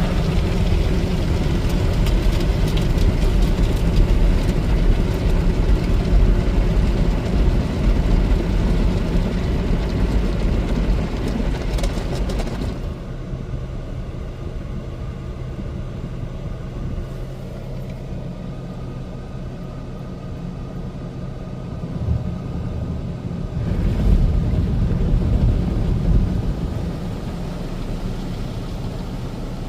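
Ryko SoftGloss Maxx automatic car wash working over a car, heard from inside the cabin: a loud rush of spray and machinery for the first twelve seconds or so, then it drops suddenly to a quieter wash noise, swelling again twice near the end. A steady low hum runs underneath.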